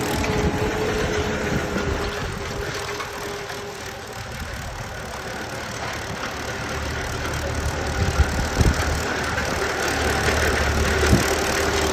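Belarus tractor's diesel engine running steadily, easing off about four seconds in and then building louder, with a few sharp clunks near the end.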